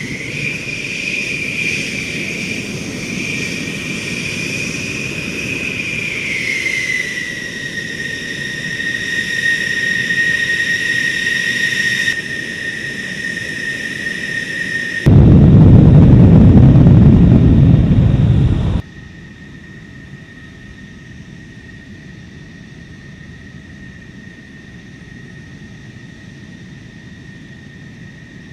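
F-16 fighter jet engine running with a steady high-pitched whine over a rumble. A much louder low rumble lasts about four seconds in the middle, then cuts off abruptly to a quieter whine.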